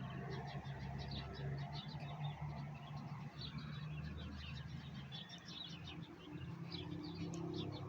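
Small birds chirping repeatedly, with a low steady hum underneath.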